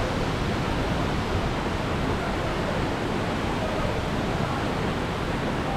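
Waterfall pouring steadily, a constant rushing roar of falling water.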